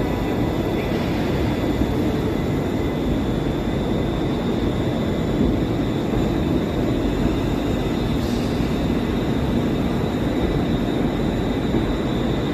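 ScotRail Class 380 electric multiple unit running into the platform: a steady rumble with a thin, high, steady whine over it, and a brief hiss about eight seconds in.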